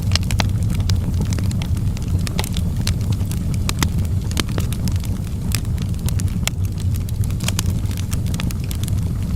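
Wood fire burning in a fireplace: a steady low roar of the flames with frequent sharp, irregular crackles and pops from the burning logs.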